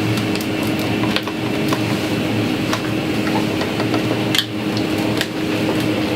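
Plastic parts of a coffee machine being pulled out and handled, making scattered clicks and knocks, the loudest about four seconds in, over a steady machine hum.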